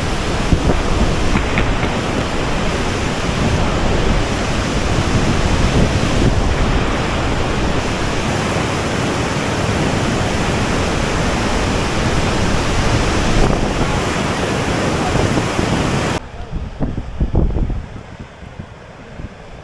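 Heavy water rushing out of a reservoir dam's outflow close to the microphone, a loud steady wash of noise. It drops away suddenly about sixteen seconds in, leaving a few low gusts of wind on the microphone.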